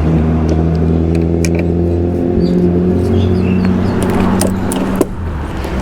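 Van engine running at low revs, a steady hum whose pitch shifts slightly, with a sharp click about five seconds in, after which it runs quieter.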